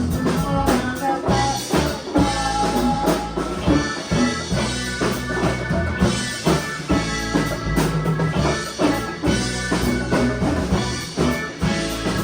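A band playing a song, with a drum kit keeping a steady beat under the other instruments.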